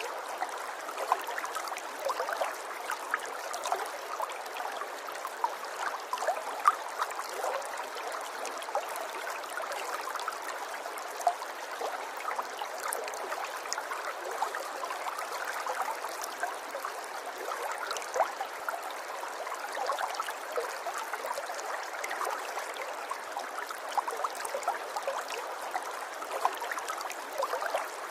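River water flowing steadily over rocks, a continuous babbling and splashing with many small gurgles.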